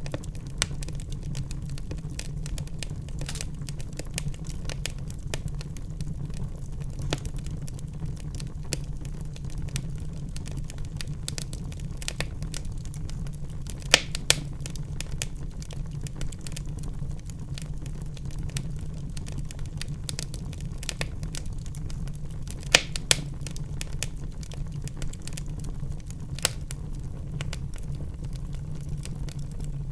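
Wood fire burning in a fireplace, crackling with many small snaps over a low, steady rumble of flames, and a handful of louder pops, two of them in quick succession about halfway through.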